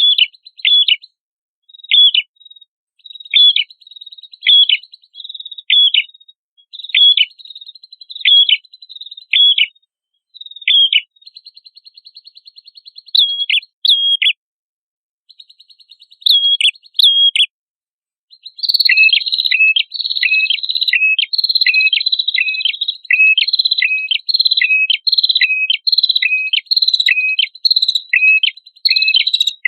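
Prinia song (prenjak kepala merah): a sharp chirp repeated about once a second, with buzzy trills in between and short breaks. About two-thirds in it becomes a fast, dense run of chirps over a continuous buzzing trill.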